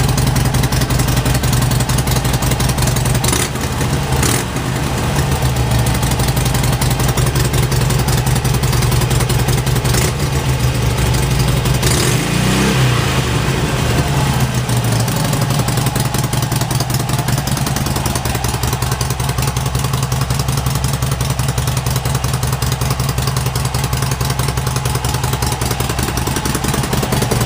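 A 2012 Harley-Davidson Iron 883's V-twin engine idling through its stock mufflers, each drilled with three quarter-inch holes for a louder exhaust note. The revs rise and fall once, briefly, about twelve seconds in.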